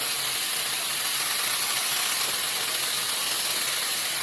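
Shark hair dryer running steadily, a constant rushing hiss of blown air from its fan.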